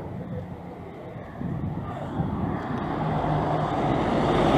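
Street traffic: a vehicle approaches, its engine and tyre noise growing steadily louder through the second half, over a background of street voices.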